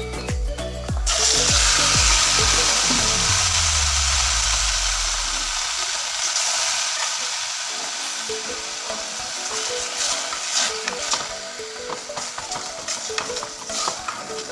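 Snake meat dropped into hot oil about a second in, bursting into a loud sizzle that slowly settles into steady frying. Scattered clinks of stirring in the pan come in the second half.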